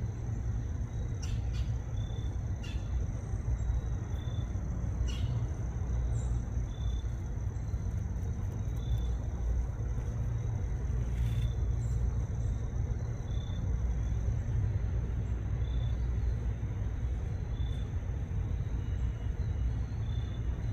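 Steady low outdoor rumble, with a faint constant high hiss and short faint high-pitched notes repeating every second or two, plus a few sharp clicks.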